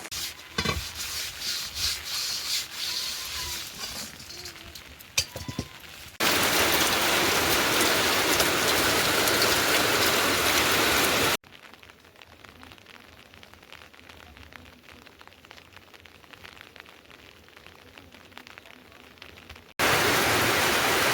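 Rain: a steady, loud hiss of heavy rain that cuts in and out abruptly, with a much quieter stretch of lighter rain in the middle. The first few seconds hold softer rain with a few sharp knocks and scrapes.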